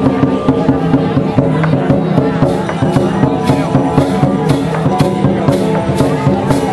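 Traditional percussion music with sharp drum or cymbal strikes over sustained held tones. About two seconds in, the strikes settle into a steady beat of two a second.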